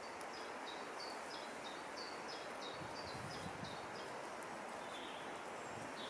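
A small bird singing a quick run of repeated two-note phrases, a high note dropping to a lower one, over a steady rushing woodland background; a few dull low thuds come about halfway through.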